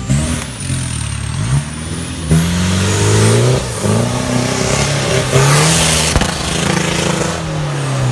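Off-road 4x4's engine revving hard, its pitch climbing and dropping again and again as the throttle is worked. There are bursts of hiss and a single knock about six seconds in.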